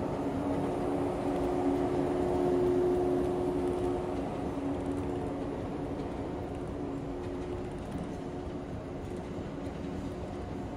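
West Express Ginga, a converted 117-series electric train, standing at the platform and humming: a steady drone with two held tones, a little louder in the first few seconds.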